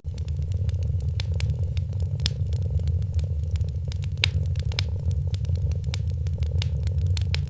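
Wood fire crackling with frequent sharp pops, the strongest about four seconds in, over a cat's steady low purr.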